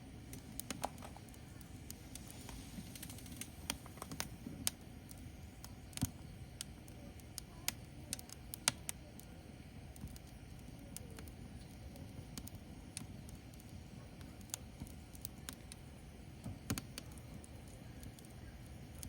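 Firewood burning in an open fire, with irregular sharp crackles and pops over a low steady rumble.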